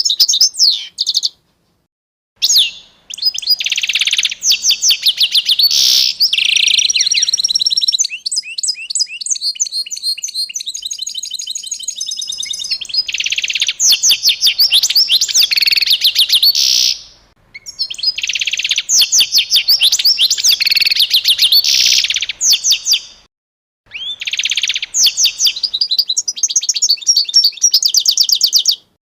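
A small songbird singing long, rapid trilling phrases of quick repeated chirps, each lasting several seconds, broken by short silent pauses.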